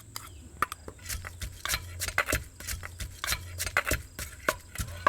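Pestle knocking and grinding in a mortar, working palm sugar into bruised garlic and chilli: irregular sharp knocks, about two a second.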